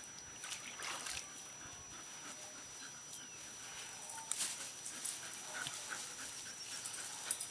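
A wet dog faintly whimpering and moving about, with scattered soft clicks and rustles.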